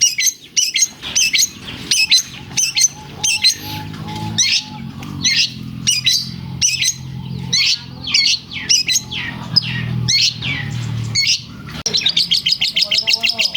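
Long-tailed shrike (cendet) singing vigorously, a string of sharp high chirps mimicking lovebird calls. Near the end the song breaks into a fast, even trill. A low droning hum runs underneath through the middle.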